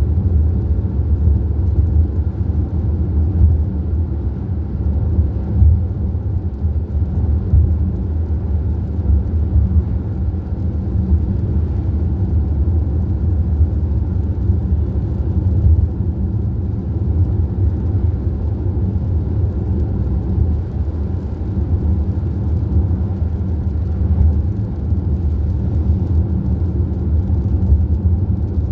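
Steady low rumble of a car driving at cruising speed, engine and tyre noise heard from inside the cabin.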